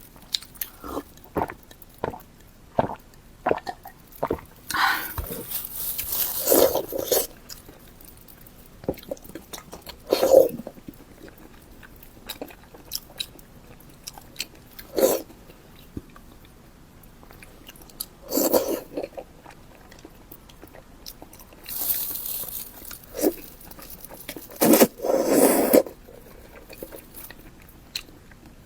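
Close-miked eating: a person biting and chewing spicy pork skin, with irregular wet mouth clicks and louder bites every few seconds.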